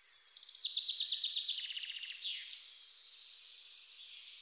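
Small songbirds chirping, with a rapid trill in the first two seconds and a falling whistle about two seconds in, then fading to faint chirps.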